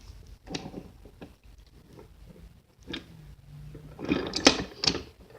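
Small motor and plastic gears of a battery-powered toy train running, with scattered clicks and rattles and a louder burst of clattering about four seconds in.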